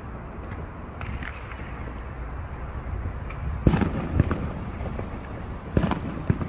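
Fireworks going off: a scatter of sharp bangs and pops, the loudest a little past halfway and a quick cluster near the end, over a steady low background rumble.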